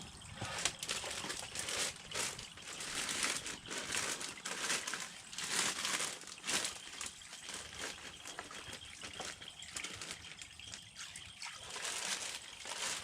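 Water running into a plastic-lined water bed, with the plastic sheeting crinkling in irregular crackles as it fills and shifts.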